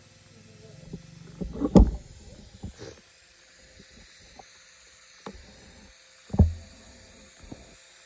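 Scattered knocks and clunks of tools and engine parts being handled during engine repair work: a few separate hits, the loudest about two seconds in and again past six seconds in.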